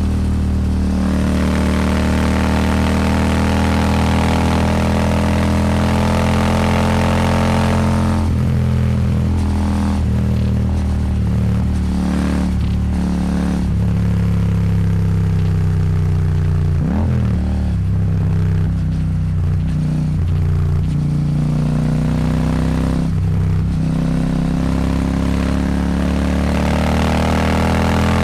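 Royal Enfield Super Meteor 650's 648 cc parallel-twin engine through an aftermarket slip-on exhaust, ridden on the highway. The engine note rises under throttle over the first several seconds, eases and sinks slowly through the middle with a brief dip about seventeen seconds in, then climbs again near the end.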